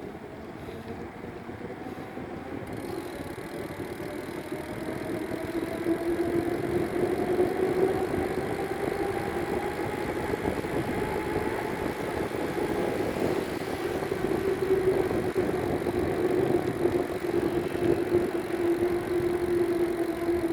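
A steady motor-vehicle engine hum with road noise, growing louder over the first few seconds. One tone holds steady while a second slowly rises and then falls in pitch.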